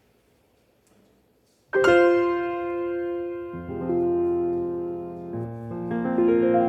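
Near silence, then about a second and a half in a piano piece begins with a loud opening chord, followed by slow, sustained chords that ring on.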